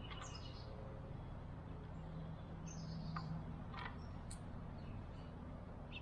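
Songbirds chirping: several short, high chirps spread through, the first sweeping downward, over faint steady background noise.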